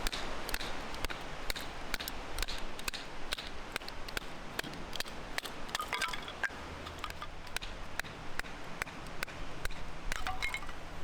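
Wood campfire crackling, with irregular sharp pops and snaps over a steady hiss, and a couple of light metallic clinks about halfway through and near the end.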